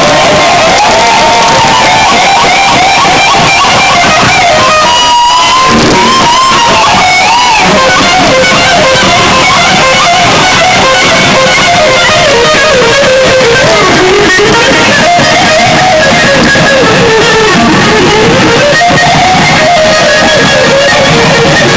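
Live rock lead electric guitar solo at full volume, with long sustained notes bending and sliding up and down in pitch and wide vibrato.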